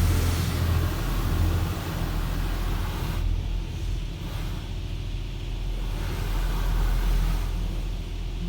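High-pressure water jets of a touchless automatic car wash spraying over the car, heard from inside the cabin as a loud hiss over a low rumble. The hiss falls away abruptly about three seconds in, leaving the rumble.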